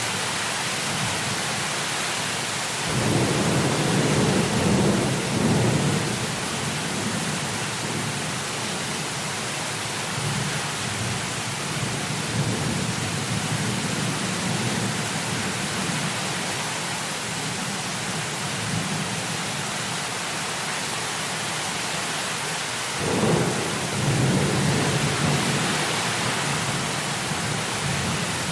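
Heavy rain falling as a steady hiss, with two rolls of thunder rumbling low, one about three seconds in and another near the end.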